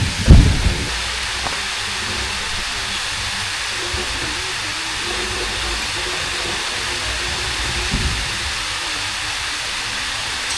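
Rushing water, a steady even hiss, with a loud low thump about a third of a second in and a softer one about eight seconds in.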